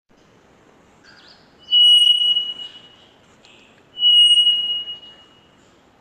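Three-wattled bellbird calling from a recording: two loud, clear single-pitched notes about two seconds apart, each held for about a second, over a faint background hiss.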